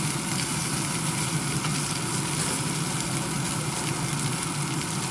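Sliced red onion sizzling steadily in hot fat in a frying pan as a wooden spatula stirs it, over a steady low hum.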